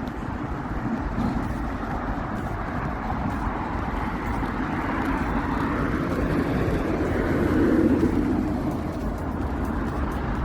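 Steady rushing traffic noise with a motor vehicle passing, swelling to its loudest about eight seconds in and then fading.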